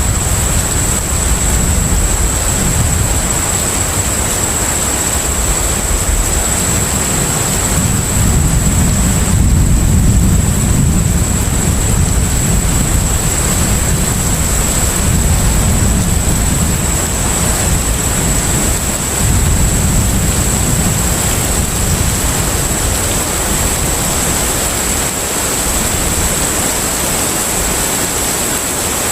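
Container ship under way at sea: a steady low engine rumble beneath a broad rushing hiss of wind and water, with a thin, constant high whine throughout.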